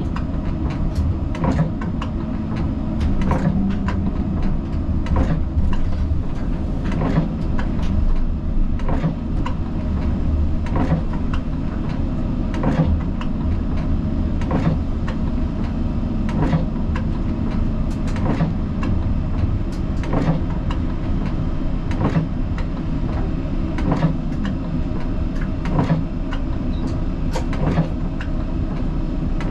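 Siemens Combino tram running along the track, heard from the driver's cab: a steady low rumble of wheels and drive with a hum, and frequent sharp clicks roughly every second.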